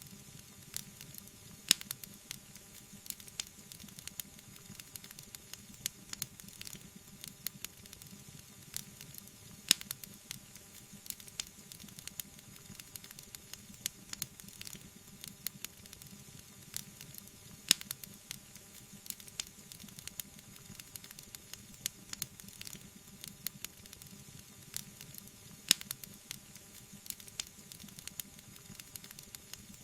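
Wood fire crackling, with a dense run of small snaps over a faint hiss. Four louder, sharper pops stand out, evenly spaced about eight seconds apart.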